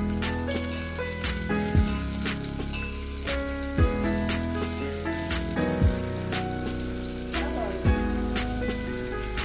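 Sliced almonds and raisins sizzling and crackling as they fry in hot ghee in a steel pot, stirred with a steel spoon. Instrumental background music plays with a deep, falling thump about every two seconds.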